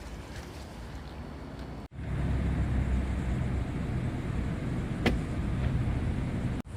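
Steady low rumble of a vehicle driving, starting abruptly about two seconds in after a brief dropout, with a single sharp click partway through. Before the rumble there is only a quieter outdoor background.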